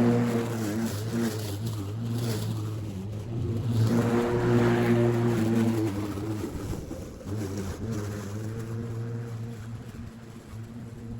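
Battery-powered lawn mower running while cutting grass: a steady motor-and-blade hum with a louder, hissier stretch about four seconds in.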